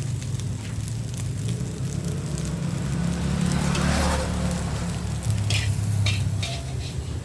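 Fried rice sizzling and being stirred in a wok over a steady low rumble, with a few sharp metal clinks near the end.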